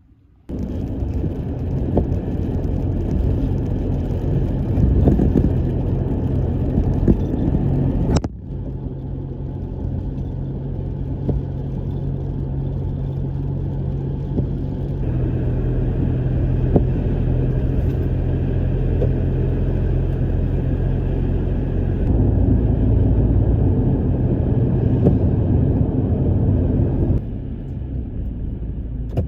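Pickup truck driving: a steady low engine and road rumble, with sudden changes in level where separate driving shots are cut together.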